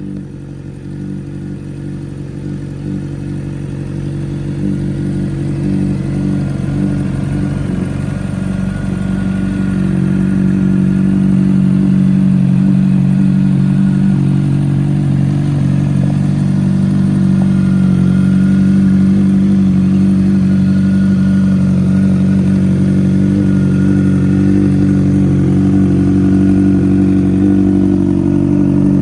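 2013 Honda CBR600RR's inline-four engine idling steadily through a Toce aftermarket exhaust, growing louder over the first ten seconds and then holding level.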